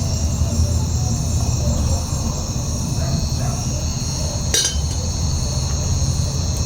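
Night insects, crickets, chirping steadily over a low rumble, with one sharp click about four and a half seconds in.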